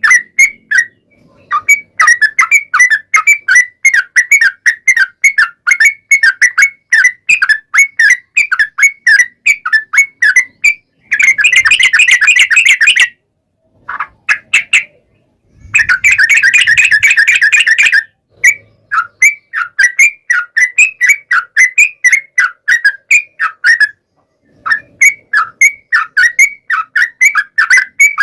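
Yellow-vented bulbul (trucukan) song: rapid series of short bubbly whistled notes, about four or five a second, broken into phrases by short pauses. There are two denser, harsher chattering runs, about 11 and 16 seconds in.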